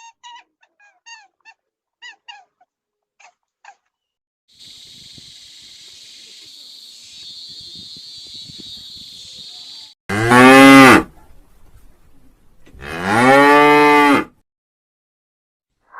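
Cow mooing twice, two loud, long moos a couple of seconds apart, each rising and then falling in pitch. Before them come a string of faint, short high chirps and then a steady high hiss lasting several seconds.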